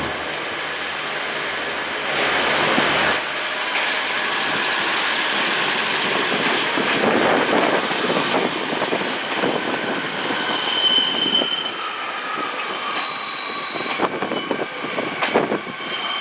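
Pair of Class 143 Pacer diesel units pulling away, their low engine drone dropping out after about three seconds into rolling wheel and rail noise. From about ten seconds in, steady high-pitched wheel squeal with several tones that come and go.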